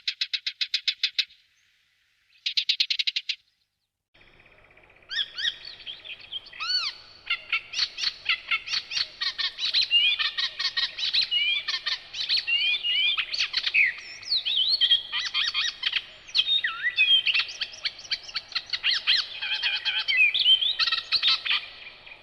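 Songbirds singing in a spring woodland. It opens with two short, fast trills of repeated notes, each cutting off abruptly. After a few seconds comes a long, varied, unbroken song of quick notes, slurred whistles and chatter.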